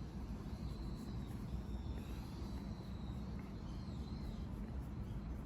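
Outdoor background: a steady low rumble with a faint, thin high chirping that wavers in pitch.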